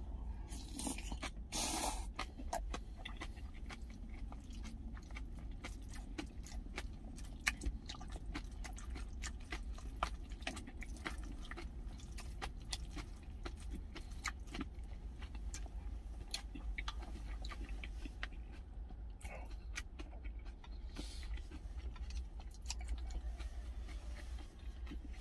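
Close-up chewing of a mouthful of sour green onion kimchi and rice, with many small wet clicks and crunches of the mouth, over a steady low hum.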